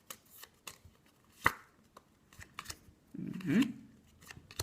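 A Yu-Gi-Oh! booster pack and its cards being handled: scattered light clicks and taps, with one sharper click about a second and a half in.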